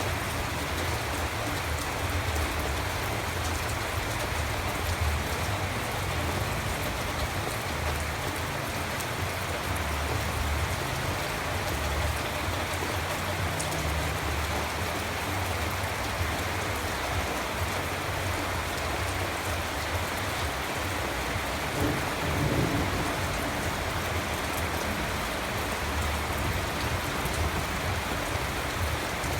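Steady rain falling and pattering on surfaces, with a low rumble underneath and a brief swell about two-thirds of the way through.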